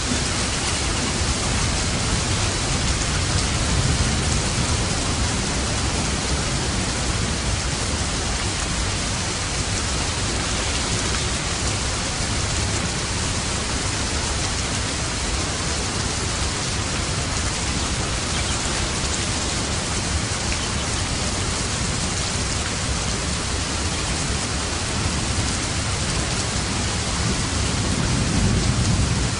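Steady, heavy rain falling in an even hiss, with a low rumble swelling briefly near the end.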